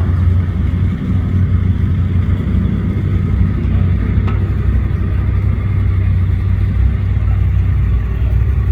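Car engine running with a steady, deep low rumble, being tested after a fresh tune-up.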